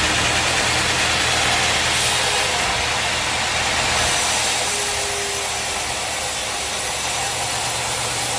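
An engine or motor running steadily, a constant low hum with an even hiss above it.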